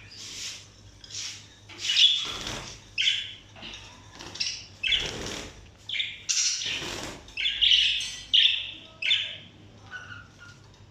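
Pet parrots giving a string of loud, harsh squawks about once a second, mixed with bursts of wing flapping, as they are handled and moved into a new cage. The calls thin out near the end.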